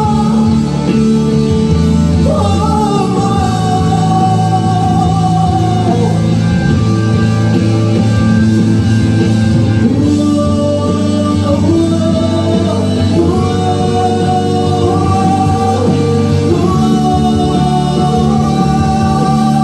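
Band music: long held lead notes that slide and step between pitches over a steady chordal backing.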